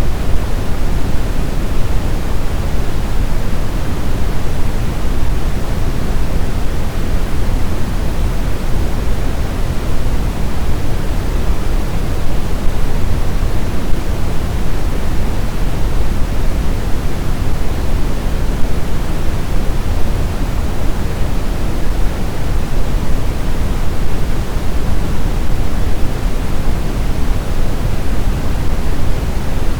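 Steady rushing noise of blizzard wind, deepest in the low end, even throughout with no gusts, whistles or howls.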